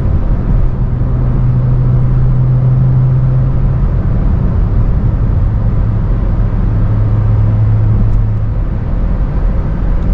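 BMW 335i's N55 turbocharged inline-six exhaust droning steadily while driving, picked up close by an exhaust-mounted microphone. The drone's pitch drops a little about halfway through and it fades into a plain rumble near the end.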